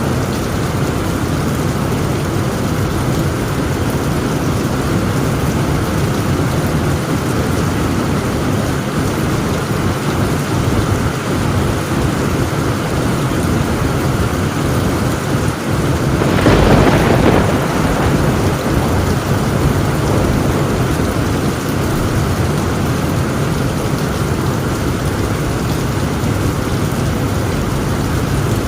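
Heavy rain falling steadily on a tin roof, with one thunderclap a little past halfway.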